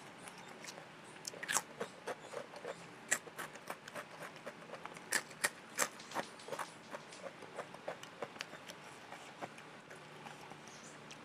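A person chewing a mouthful of rice and spicy chicken feet close to the microphone: many small mouth clicks and smacks. They come thickest in the first half and grow fewer toward the end.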